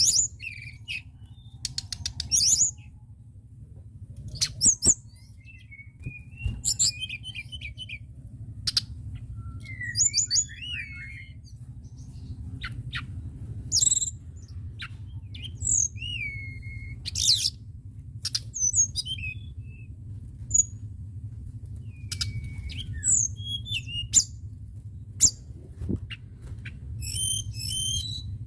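Tledekan gunung songbird singing in its cage: repeated short bursts of sharp whistled notes and chips, one phrase every second or two, with a quick run of rapid notes near the end. A steady low hum lies underneath.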